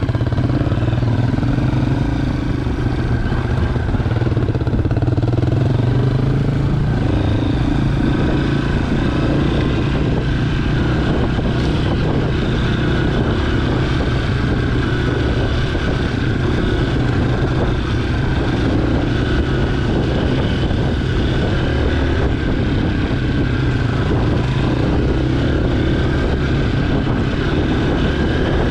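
Honda CRF230F dirt bike's air-cooled single-cylinder four-stroke engine running under way, heard from a mount on the bike. It runs steadily, its pitch rising and falling a little with the throttle.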